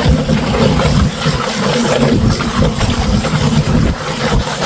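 Pedal-operated chicken plucker running steadily, its motor-driven spinner tumbling a scalded bird with the water running over it.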